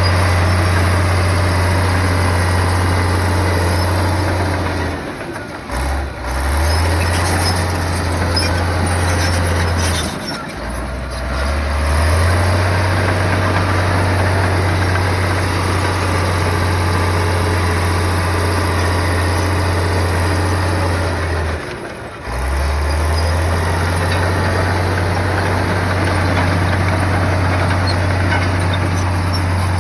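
Heavy earthmoving machine's diesel engine running loud and steady, its low pitch sagging and picking back up three times, about 5, 10 and 22 seconds in.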